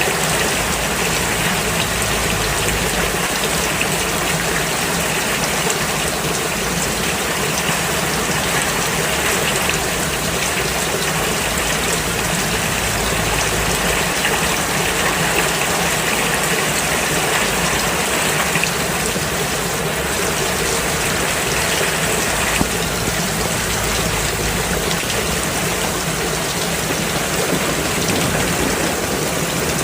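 Steady rain falling on a road, an even hiss that keeps up without a break.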